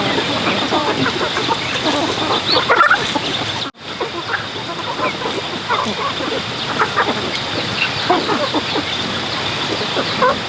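A flock of chickens clucking, many short calls overlapping, with a brief break about four seconds in.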